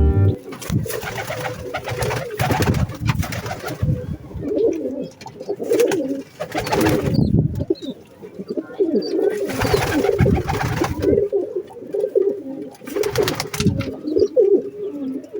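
Domestic blue rock pigeons cooing over and over in an enclosed space. Several bursts of noise come in between the coos.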